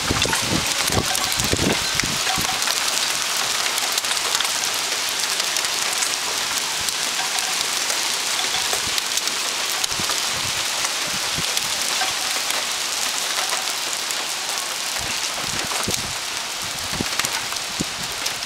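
Hailstorm: a dense, steady patter of hail and rain on surfaces, with scattered louder knocks from bigger hailstones, thickest in the first couple of seconds and again near the end.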